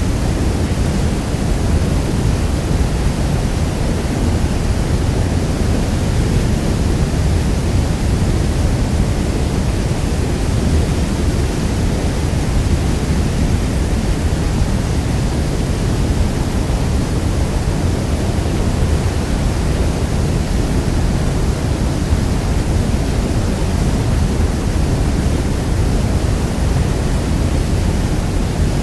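Niagara Falls: a steady, deep rush of massive falling water, unbroken and without any separate splashes or events.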